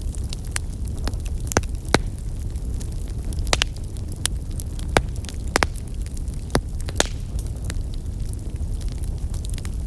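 Wood fire crackling in a fireplace: irregular sharp pops and snaps, a few louder ones about two, five and seven seconds in, over a steady low rumble.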